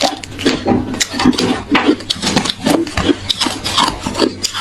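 Hard ice being chewed close to the microphone: a quick, irregular run of loud crunches, several a second.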